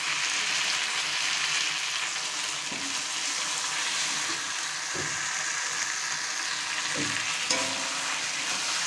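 Fish and potato pieces frying in oily spice paste in a metal kadai, a steady sizzle, with a metal spatula stirring and scraping against the pan a few times.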